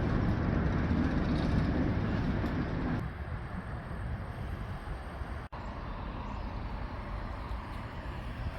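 A railway locomotive running: a low rumbling noise that drops sharply about three seconds in, then cuts out for an instant a couple of seconds later.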